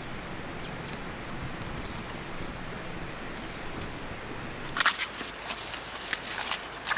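Outdoor rural ambience with a steady hiss. A bird gives a short run of quick high chirps midway, and from about five seconds in come a series of sharp rustles and crackles, like footsteps or handling in dry vegetation.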